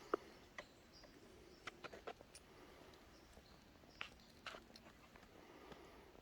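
Mountain bike rolling over a rocky stretch of trail: faint, irregular clicks and knocks from the tyres and drivetrain over a quiet background.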